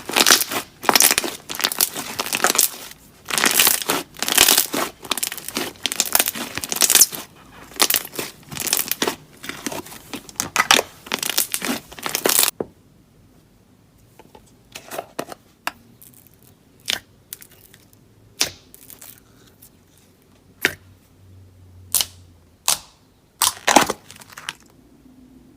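Slime being squeezed and worked, making dense crackling, crunching sounds that stop about halfway through, followed by scattered small pops and clicks.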